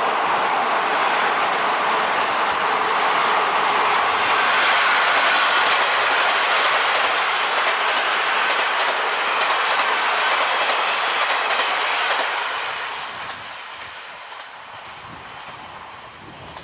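Train passing close by: a loud, steady rush of wheels on rail with clickety-clack, fading away from about twelve seconds in.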